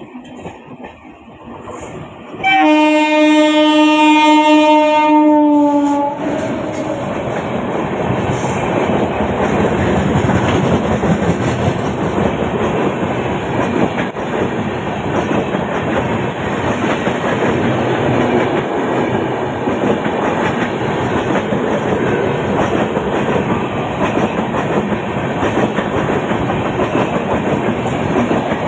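A train sounds a long horn blast as it runs through the station; the horn's pitch dips slightly just before it stops. The train then passes close by for the rest of the time, a steady loud rush of wheels on rail and wagons going by.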